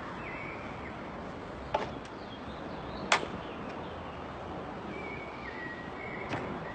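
Steady outdoor background noise with thin whistled calls that step down in pitch, like birdsong, near the start and again near the end. Three sharp clicks cut through it, the loudest about three seconds in.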